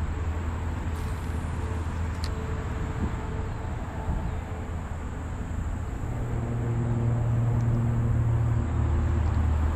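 A steady low engine hum that grows louder about six seconds in.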